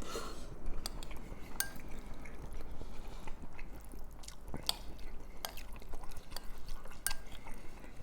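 Close-miked eating sounds: a spoon clicking and scraping against a bowl of stew, with scattered wet mouth sounds.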